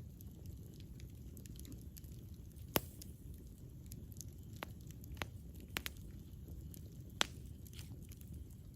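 Campfire burning with a low steady rumble and scattered sharp crackles and pops of the wood, the loudest pops about three seconds in and near the end.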